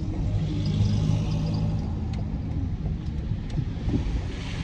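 Car engine and road rumble heard from inside the cabin, a steady low drone with a faint hum and a few light clicks.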